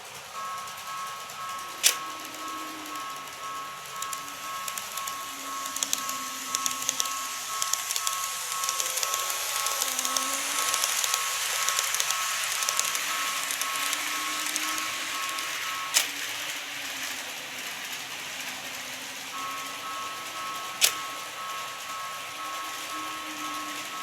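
Model train running on the layout track, its wheels giving a fine clattering rattle that swells in the middle and fades. Under it a two-pitch electronic tone keeps repeating; it stops for a few seconds near two-thirds of the way through and then starts again. Three sharp clicks stand out.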